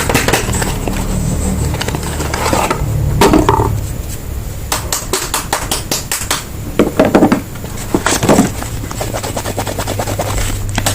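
Soap packaging being unwrapped and handled: crinkling, scratching and rapid clicking of wrappers, with a few louder scrapes about three, seven and eight seconds in.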